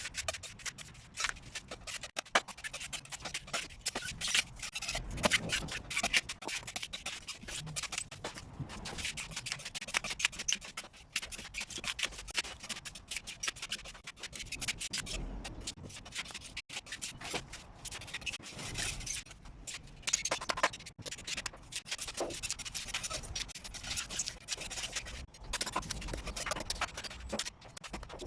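Irregular scraping and rubbing strokes, hand work on the stripped-down electric water heater.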